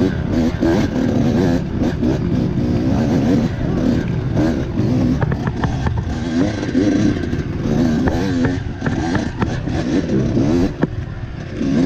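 Dirt bike engine revving up and down again and again as it is throttled over rocks, with scattered knocks and clatter.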